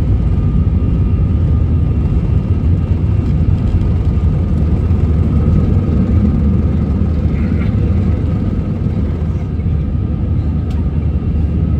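Airliner engine and airflow noise heard inside the passenger cabin: a loud, steady low drone with a faint steady whine above it.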